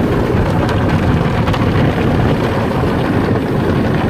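Belanger tunnel car wash's big cloth brush and rocker panel brush spinning and scrubbing against the side of the car, heard from inside the car: a loud, steady, dense low noise.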